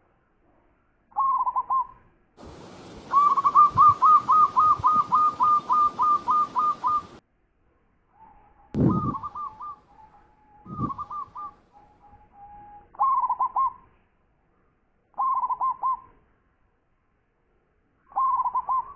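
Zebra dove (perkutut) cooing: short rolling coo phrases repeated every couple of seconds, and a long fast string of about fifteen notes over a hiss between about three and seven seconds in. Two dull thumps come near nine and eleven seconds.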